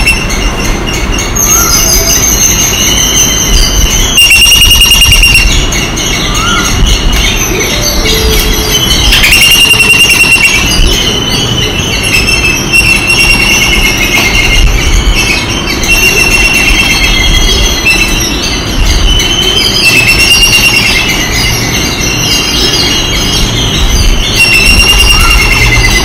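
Babblers giving loud, overlapping, high-pitched squealing calls, each held for a second or two and often bending slightly down in pitch.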